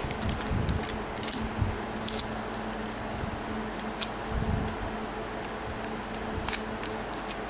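Scotch tape being pulled off and pressed down onto paper, with several short tearing rasps and soft handling bumps.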